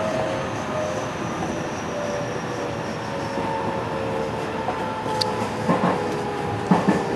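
JR West 207 series electric commuter train heard from inside the car while running: a steady rumble from wheels and running gear, with a motor whine that falls slowly in pitch. A few short knocks come near the end.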